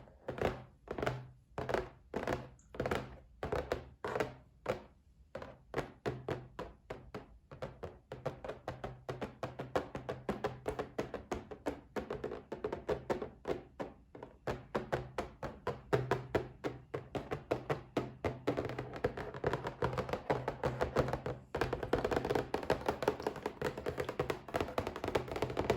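Tapping on a box: separate taps about two a second at first, then quickening about five seconds in into fast, dense tapping that grows louder toward the end.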